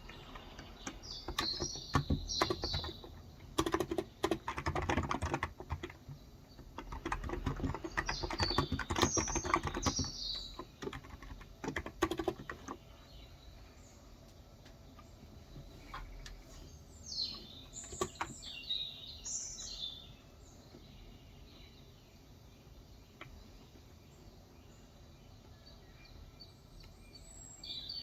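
Typing in bursts on a Cox Endeavor tenkeyless electrostatic capacitive (Topre-style) keyboard with 35 g switches: soft, muted keystrokes that thin out and stop about halfway through. A bird chirps in short phrases several times.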